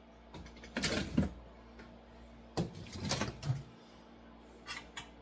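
Kitchen handling noises: two short bursts of knocking and scraping, about a second in and again at about three seconds, with a few light clicks between them.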